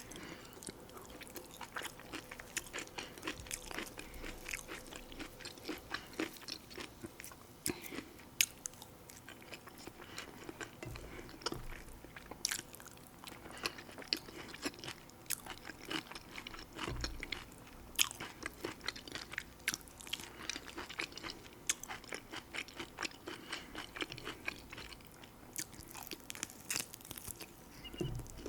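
Close-miked eating: steady chewing and biting with many small, irregular crunches and clicks.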